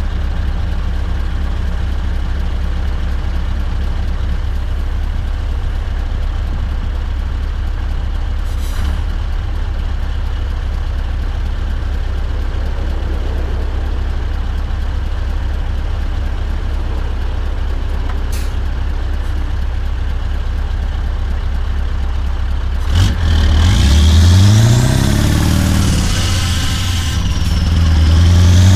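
Scania V8 truck engine idling steadily, then revved twice near the end, the pitch rising and falling each time.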